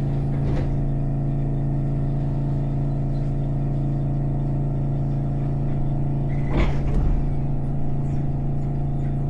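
Electric train running, heard from inside the car: a steady low hum with a brief clatter just after the start and a louder one about six and a half seconds in.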